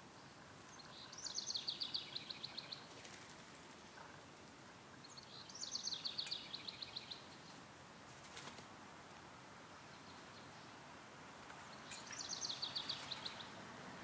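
A songbird sings three times, each phrase a short high note dropping into a quick, even trill of about a dozen repeated notes lasting a second or two, over a steady outdoor hiss.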